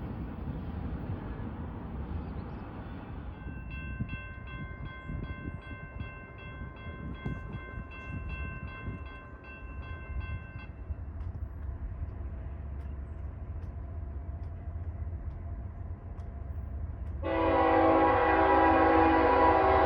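Railroad grade-crossing bell ringing at about two and a half strikes a second for several seconds, then stopping. Near the end a diesel locomotive's multi-chime air horn starts to blow, much louder than the bell, over a low rumble.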